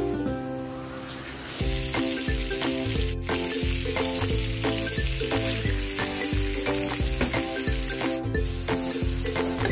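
Butter and minced garlic frying in a wok, a steady sizzle that starts about a second and a half in, with light background music underneath.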